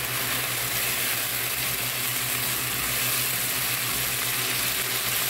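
Chicken pieces and sliced onions sizzling steadily in hot oil in a frying pan, stirred with a silicone spatula.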